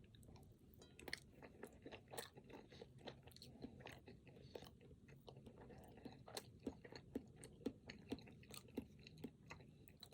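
Close-miked chewing of a chocolate-coated, cream-filled snack cake: many quick, wet mouth clicks and smacks, starting about a second in.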